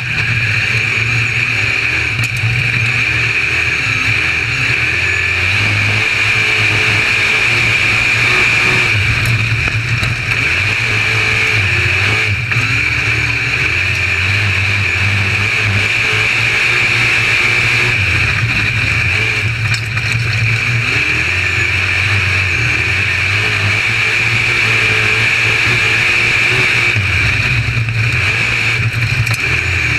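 UMP modified dirt-track race car's V8 engine running hard on track, its revs repeatedly rising and falling as it goes on and off the throttle.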